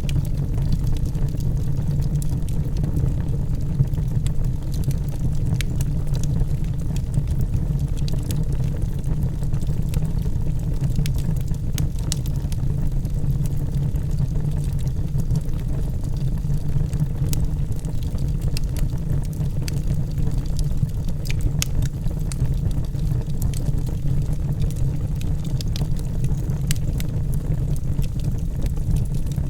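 Logs burning in a fireplace: a steady low rumble with frequent sharp crackles and pops throughout.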